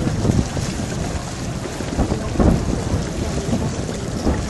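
Distant fireworks shells bursting: several dull, rumbling booms carried across open water, the loudest about two and a half seconds in, over a steady background rush.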